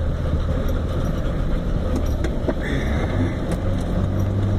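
Truck engine running with a steady low drone while driving over a rough off-road trail, heard from inside the cab, with a few sharp knocks and rattles over the bumps.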